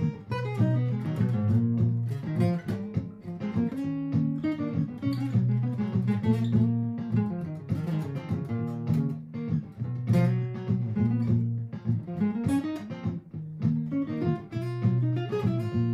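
Martin GPCPA4 acoustic guitar improvising plucked single-note lines over its own looped chord part played back by a looper pedal; the low looped notes repeat in a steady pattern under the lead.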